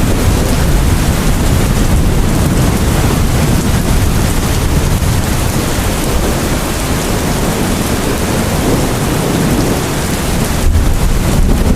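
Loud, steady rain, with a deep low rumble underneath.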